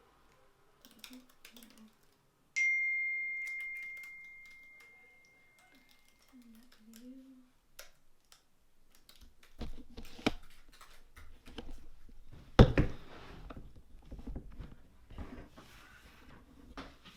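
A single bell-like ding that starts suddenly and rings away over about three seconds. Later comes a run of handling noise: clicks, rustling and knocks, with one sharp knock about two-thirds of the way through that is the loudest sound.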